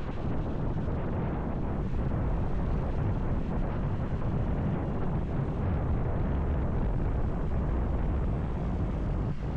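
Steady wind rushing over the microphone of a moving motorcycle, with the motorcycle's engine running underneath as a low rumble.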